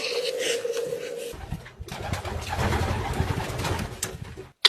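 A bird's low, steady coo, held for about a second. It is followed by a rough rustling rumble that cuts off abruptly near the end.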